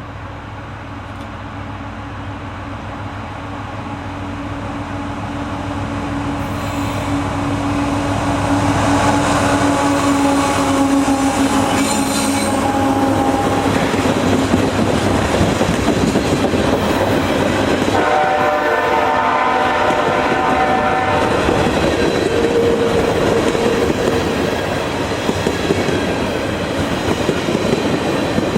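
Train approaching and passing, growing louder over the first several seconds, then a steady rumble and clatter of wheels on rail. The horn sounds one blast of about three seconds, about two-thirds of the way through.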